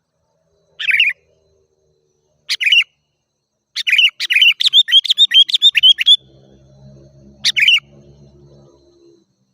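Sooty-headed bulbul singing: short bursts of bright calls, then a quick run of repeated notes for about two seconds, and one more burst near the end.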